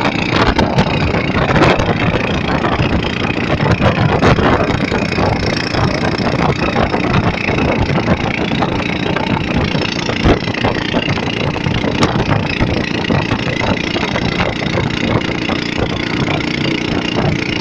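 A boat engine running steadily under a dense rushing noise of storm wind and rain.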